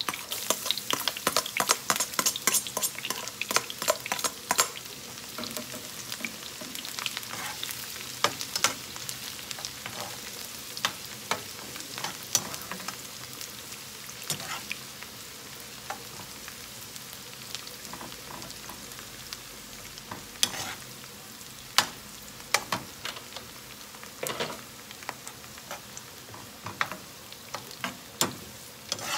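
Onion and garlic frying in hot oil in a pan, sizzling, while being stirred with a utensil that clicks and knocks against the pan. The crackling is dense for the first few seconds, then settles to a steadier sizzle with occasional sharp knocks.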